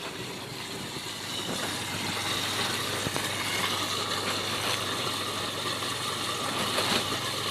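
Aerator air pump humming steadily while air bubbles up through the water of a 200-litre hydroponic nutrient reservoir, louder from about a second and a half in.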